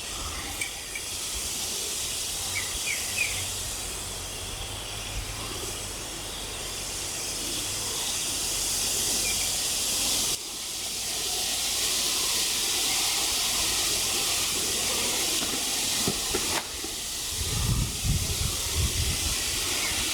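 Steady hiss of a freshly lit kindling fire of split wood catching in a grill, with a brief sudden dip about halfway and low rumbling near the end.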